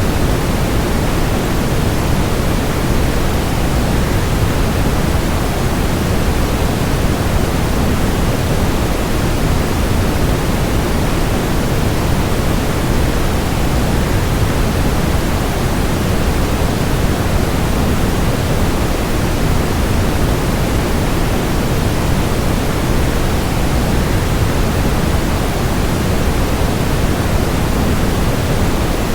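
Waterfall white noise: a steady, unbroken rush of water-like noise, heaviest in the low end, with no change in level.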